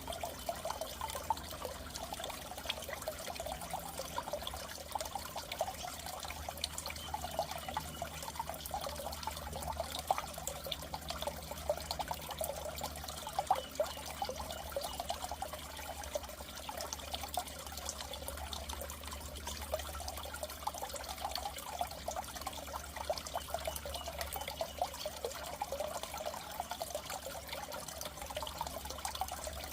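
Water in a goldfish tank trickling and bubbling continuously, with a steady low hum underneath.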